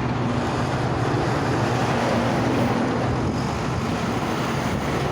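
Steady engine rumble with a low hum, mixed with wind buffeting the microphone.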